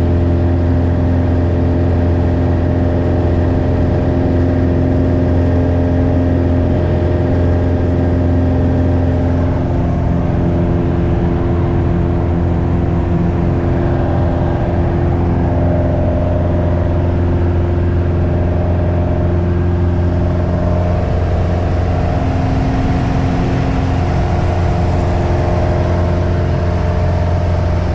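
Light aircraft's piston engine and propeller running steadily, with small shifts in pitch partway through.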